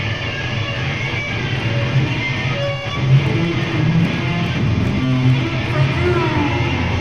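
Heavy band playing live, led by loud distorted electric guitar over bass, with a few gliding whining tones near the end.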